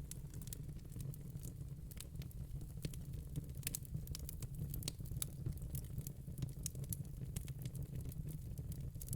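Fire crackling: a steady stream of irregular small pops and snaps over a low, steady rumble.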